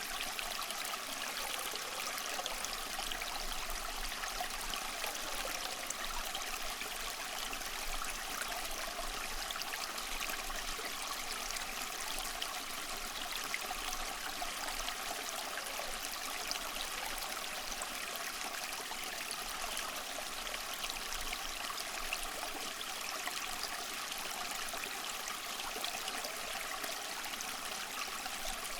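Steady rushing water, an even unbroken wash of sea water with no separate wave breaks standing out.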